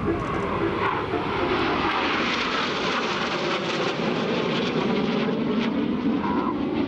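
Jet engines of the Red Arrows' BAE Hawk T1 trainers flying past in formation, a steady rushing jet noise that swells in its higher tones about two seconds in.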